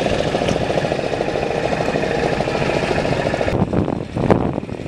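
Fishing boat's engine running with a fast, even pulse; the sound drops away sharply about three and a half seconds in, and a single sharp click follows.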